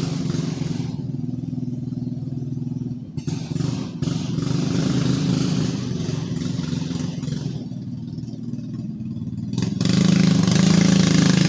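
Dirt bike engine running with a steady, fast-pulsing note. It grows louder near the end as the bike comes closer.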